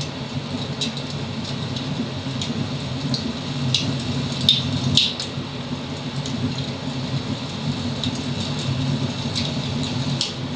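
Wood fire crackling in a fireplace: a steady low rumble of flames with sharp pops at irregular intervals, the loudest two close together about halfway through.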